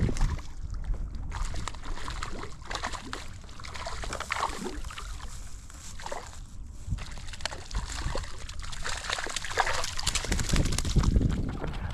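Hooked rainbow trout thrashing at the surface as it is played in, water splashing and sloshing in irregular bursts, loudest near the end.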